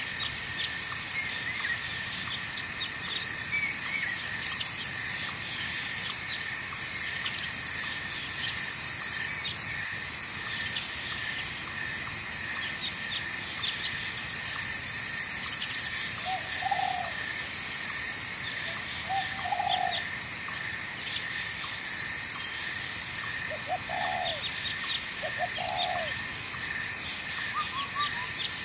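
Night forest ambience: a steady chorus of insects with a very high trill that pulses on and off every second or two, over a faint wash of flowing water. From about halfway through, four short low animal calls are heard, with a few high chirps near the end.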